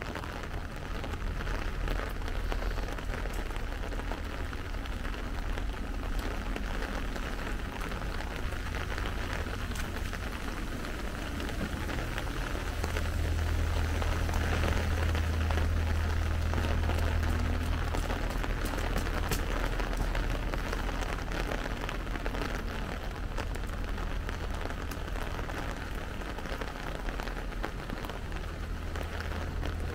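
Light rain falling steadily on a city street, a dense patter of drops. A low rumble swells for several seconds about halfway through.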